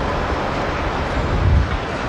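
A train passing close by: steady rumbling of wheels on rail, with a brief louder swell about a second and a half in.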